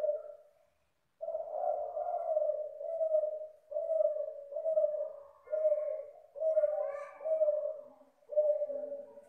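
Spotted dove (tekukur) cooing: after a pause of about a second, a run of about eight low coos follows, one after another, roughly one a second. The cooing is of the song type that keepers call sinom.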